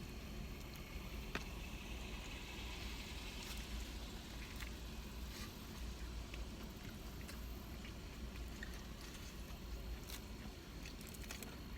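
Faint eating sounds, scattered soft clicks and squishes of food and packaging, over a steady low hum.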